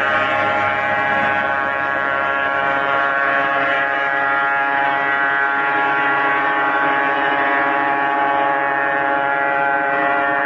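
Kawasaki Ninja 150 two-stroke single-cylinder motorcycle engine running at steady revs, its exhaust giving a constant, strongly pitched note.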